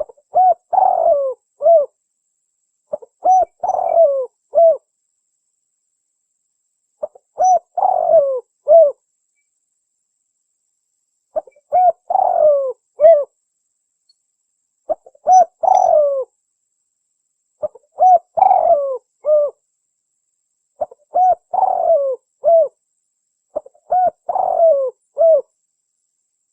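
Spotted dove (tekukur) cooing: the same phrase of short coos around a longer falling note, repeated eight times with pauses of a second or two between phrases.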